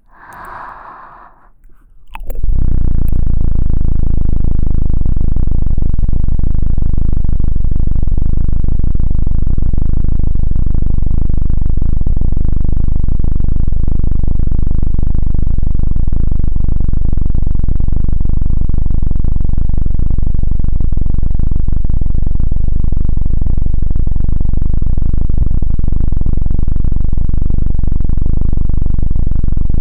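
Helicopter sound effect: a loud, steady, low rotor-and-engine drone that starts about two seconds in, after a brief softer sound.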